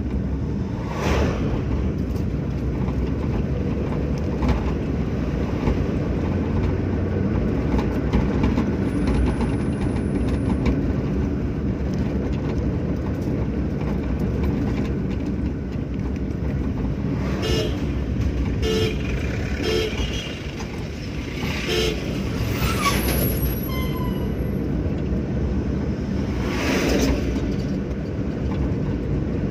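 Steady engine and road noise of a Hyundai Santro driving along a highway. Several short horn toots come in a cluster about two thirds of the way through.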